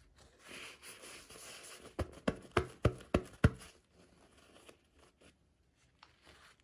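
Packaging being handled: a rustling, tearing crinkle for about a second and a half, then five sharp clicks in quick succession, the last one loudest, and a few faint ticks after.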